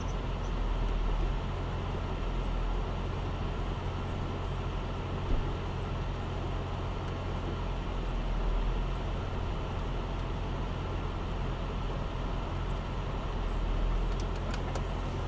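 A car engine idling steadily, heard from inside a car, a low hum under a constant hiss. A few faint clicks come near the end.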